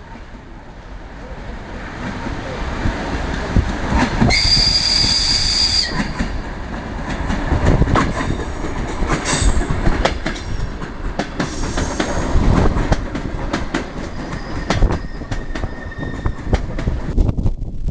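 ER9 electric multiple unit pulling into a station, its wheels clacking over the rail joints. Its noise builds over the first few seconds, and a high squeal lasts about a second and a half, beginning about four seconds in.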